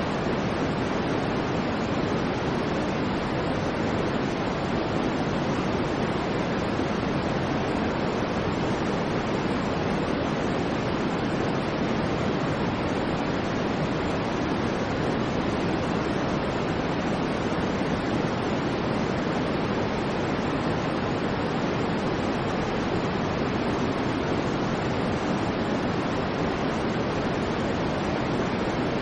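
Steady synthetic white noise, an even hiss with no rise, fall or pulse, its weight lying more in the low-middle range than the top.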